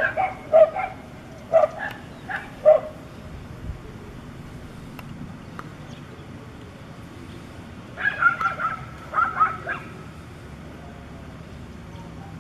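Dogs barking and yelping: a string of short, sharp barks in the first three seconds, then another flurry about eight seconds in, with low background noise between.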